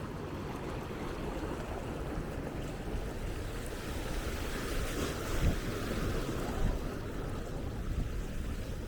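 Small waves washing on a sandy shore, with wind gusting on the microphone as a low rumble; the wash swells a little around the middle.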